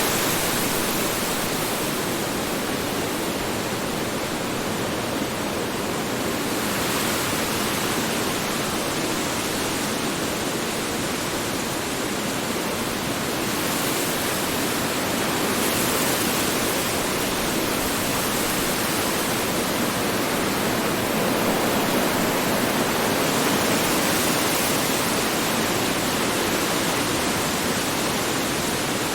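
Strong wind blowing steadily, a dense rushing noise that swells and eases slightly every few seconds.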